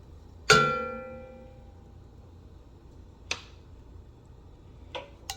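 Metal cookware knocked once, ringing with a clear bell-like tone that fades over about a second, followed by a single duller knock and two light clicks near the end.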